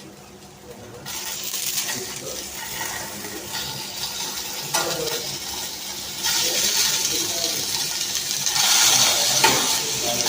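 Chicken seekh kababs sizzling as they shallow-fry in a little oil in a pan. The sizzle starts about a second in and grows louder after the middle, with a couple of light knocks of a utensil against the pan.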